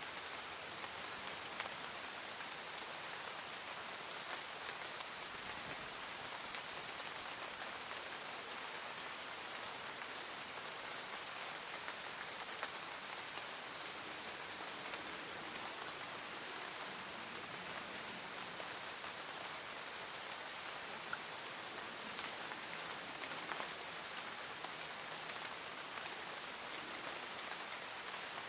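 Steady rain falling, a constant hiss scattered with many small drop ticks.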